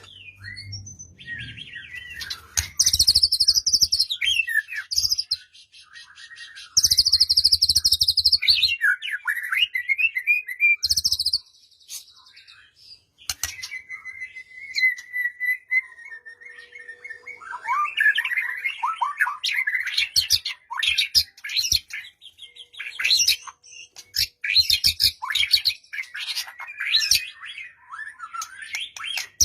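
White-rumped shama (murai batu) singing a varied song of whistled and gliding notes, with two loud harsh rattling phrases in the first third and one long level whistle near the middle, then quick changing phrases.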